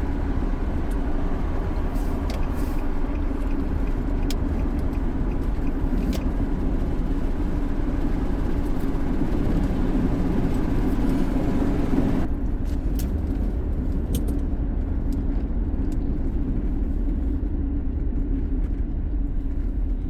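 Steady rumble of a car driving, with engine and tyre noise as heard from inside. About twelve seconds in, the higher hiss drops away suddenly while the low rumble goes on.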